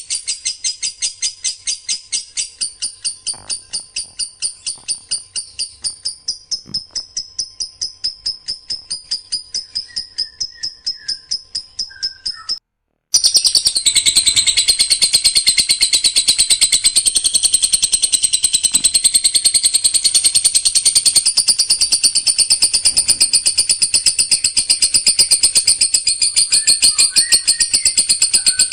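Songbird rapid-fire song ('tembakan rapat'): high-pitched notes repeated evenly, about five a second. A brief break comes just under halfway, followed by a denser, faster run of notes.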